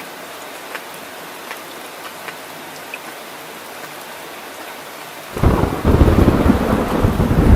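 Steady rain falling, with scattered single drop ticks, then about five seconds in a loud thunderclap breaks in and rolls on as a low, crackling rumble.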